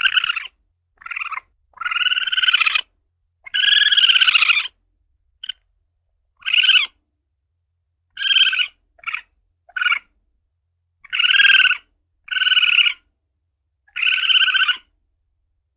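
Asian palm civet (luwak) calling: about a dozen high, pitched calls in a row, each from a fraction of a second to about a second long, with silent gaps between them.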